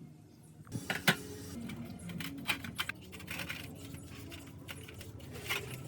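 Small metal parts and hand tools clicking and clinking as they are handled, with one sharp knock about a second in, over a low steady hum.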